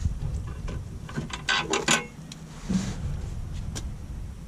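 Light metallic clicks and clinks from hand work on a truck gearbox and its support straps, with a quick run of several clicks between about one and two seconds in.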